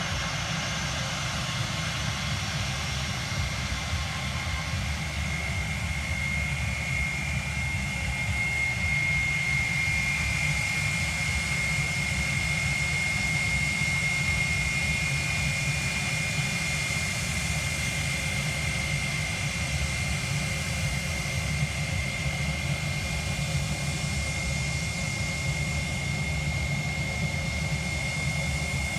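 Airliner engines running: a steady low rumble with a high, even whine that swells slightly in the middle and stays to the end.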